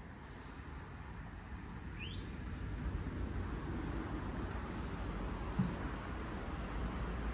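Steady low outdoor rumble that grows louder, with one short rising chirp about two seconds in and a soft thump later on.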